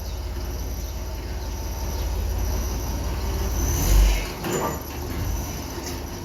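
A machine running with a steady low hum and a fast, even pulsing. There is a brief thud about four seconds in.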